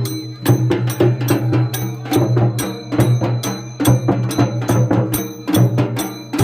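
Traditional Indian folk percussion music: drums and bright metallic strokes keeping a fast, steady beat of about three to four strokes a second, over a steady low drone.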